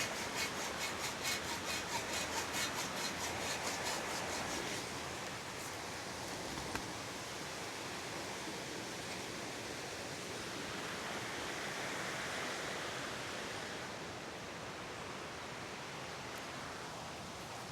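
Rhythmic scraping strokes, about three a second, for the first five seconds or so, then stopping, leaving a steady rushing hiss.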